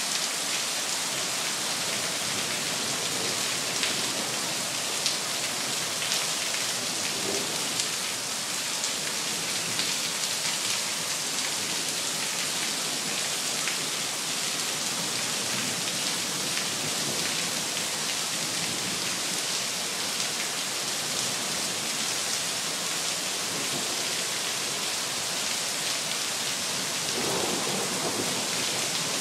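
Heavy rain falling steadily in a thunderstorm: an even hiss with many scattered drop ticks.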